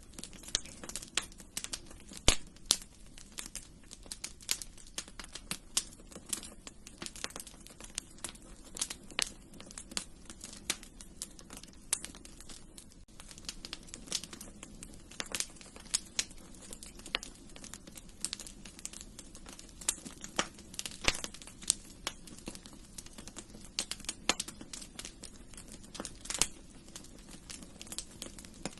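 Wood fire crackling in a fireplace: irregular sharp pops and snaps, several a second, over a low steady hiss of flames.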